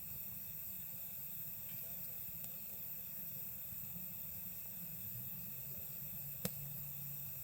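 Campfire burning quietly over a steady chorus of night insects, with a faint crackle about two and a half seconds in and one sharp pop from the fire near the end.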